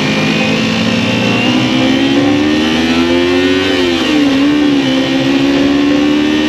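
Motorcycle engine running under way, its pitch rising steadily as it speeds up, dipping briefly about four seconds in, then holding steady.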